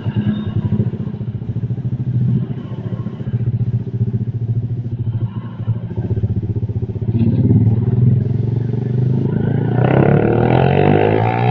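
Motorcycle engine running while being ridden, holding a steady speed, then rising in pitch as it accelerates about ten seconds in.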